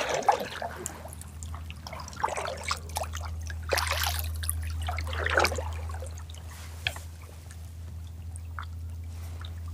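Water splashing and trickling at the side of a kayak, in irregular splashes that thin out after about seven seconds, over a steady low hum.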